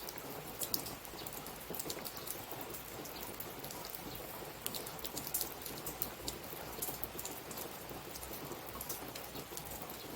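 Steady rain, an even hiss with many scattered drop ticks.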